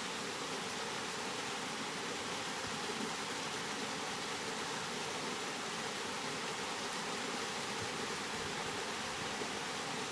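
Steady rain sound: an even, unbroken hiss with no distinct drops or patters standing out.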